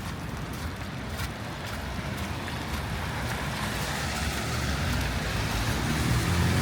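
A vehicle approaching on a wet street, its tyre hiss and low engine rumble growing steadily louder.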